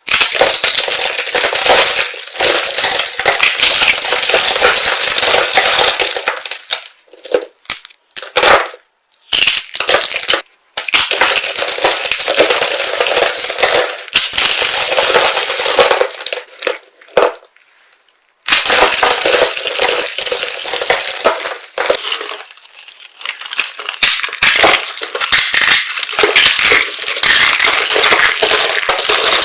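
Dry soap pieces being crushed: a loud, dense crunching crackle in long runs, broken by a few short pauses.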